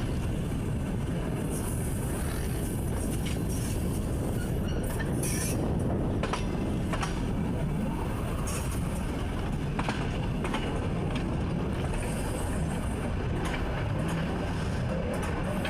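A train running, heard from inside the driver's cab: a steady low rumble with scattered sharp clicks.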